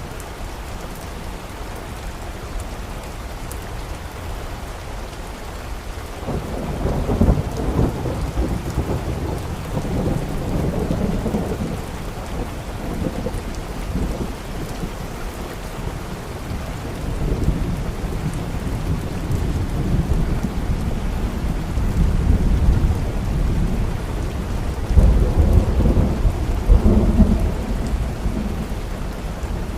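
Steady rain with rolling thunder: a long low rumble builds about six seconds in and rolls on for several seconds, and a second, stronger peal comes near the end.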